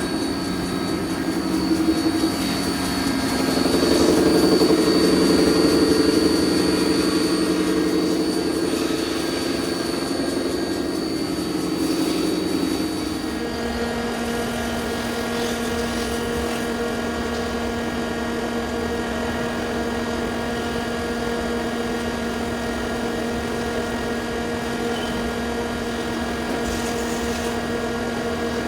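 Mazak QT30 NC lathe spindle drive running, a steady machine whine made of several tones. It grows louder a few seconds in, and the tones change about halfway through, then hold steady. The abnormal noise is suspected to come from a seized intermediate-shaft bearing.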